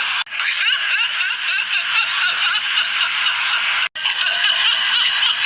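Large audience laughing and cheering, a dense wash of many voices, cut off abruptly for an instant about a quarter second in and again about four seconds in.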